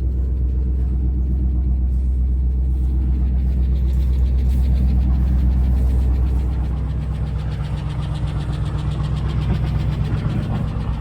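Ford F250 Super Duty pickup's engine idling steadily with a low drone, its tone shifting slightly a little past halfway through.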